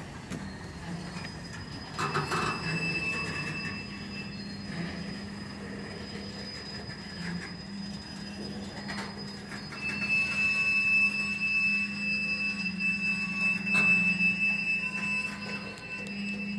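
Slow-rolling freight train in a yard: a steady low rumble of cars with a high, steady metallic squeal from the wheels and brakes that grows louder about ten seconds in, and a few sharp clanks.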